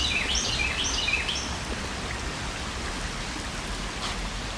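Steady rushing of flowing spring water. A bird sings a quick series of short falling chirps during the first second and a half.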